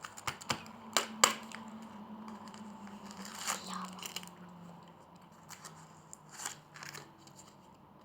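Plastic wrapper of a small surprise toy packet being torn open and crinkled, in sharp rustles and clicks that are loudest about a second in, with smaller crinkles later on.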